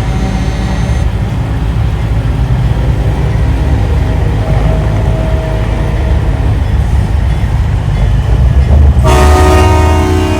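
Big-rig truck diesel engines rumbling steadily as the convoy rolls by. About nine seconds in, a loud multi-tone air horn, train-horn style, blasts and holds.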